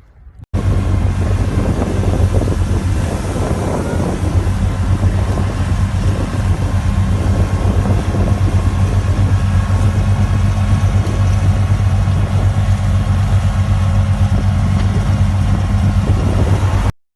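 A motor vehicle's engine running steadily, a low even hum with a haze of road or wind noise over it, starting and stopping abruptly.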